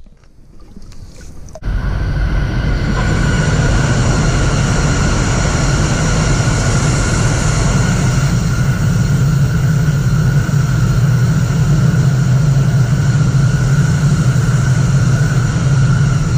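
Coupled E5 and E6 Shinkansen high-speed trainset running past, a steady low rumble with a steady high whine over it. It starts abruptly about a second and a half in, after a short quieter stretch.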